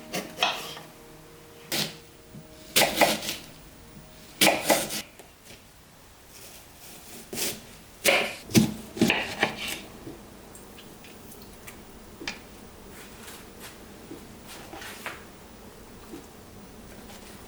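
A series of irregular knocks, clicks and clatters, as dishes and utensils are handled in a kitchen. The loudest cluster comes about eight to nine seconds in, and afterwards only a few faint ticks are heard.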